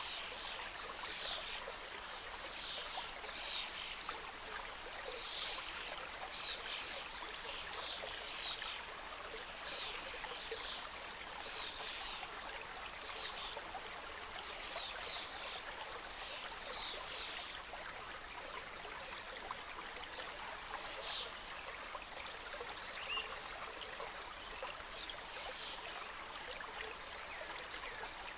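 Small mountain stream cascading over rocks, making a steady rush and babble with frequent short, high-pitched splashes on top, which thin out after the first half.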